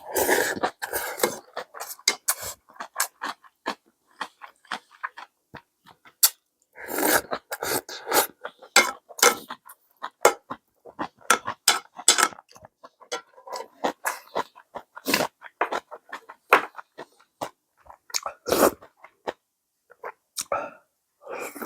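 A person eating a bowl of instant ramyeon noodles: irregular slurping and chewing noises, some longer and noisier, others short and clicky.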